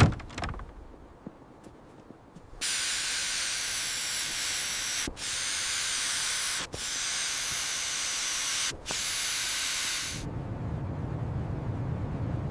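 A sharp knock, then about two and a half seconds in a loud, steady spray-like hiss that runs for about seven and a half seconds with three brief breaks, giving way near the end to a low rumbling noise.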